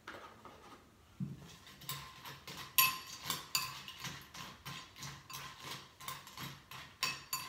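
Crunchy waffle cereal in milk being chewed close to the microphone: crisp crunches at a steady pace of about three a second, starting about a second in. A metal spoon clinks now and then against the bowl.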